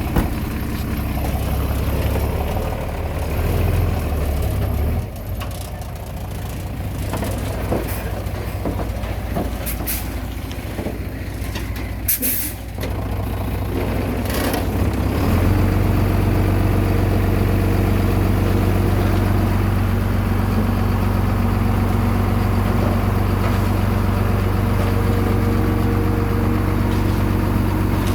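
Heavy diesel earthmoving machinery running, its engine note shifting unevenly and then settling into a steady even drone about halfway through. Short sharp hisses come a little before and after ten seconds in.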